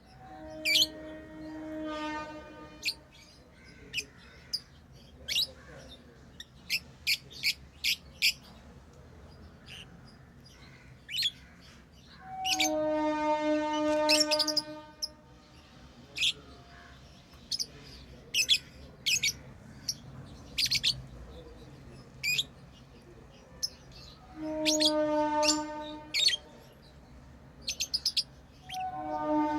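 Lovebirds chirping: a steady run of short, sharp high chirps. A steady horn-like buzzing tone of two to three seconds breaks in three times: near the start, midway and at the very end.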